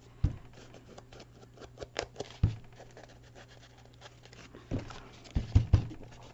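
Ink being dabbed and rubbed onto paper edges: light scratchy paper noises with a few soft knocks on the work table, several of them close together near the end.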